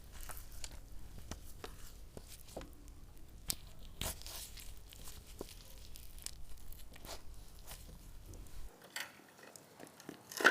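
Raw meat and chicken being worked onto skewers: irregular soft tearing and scraping with small sharp clicks. A low background hum drops out about nine seconds in.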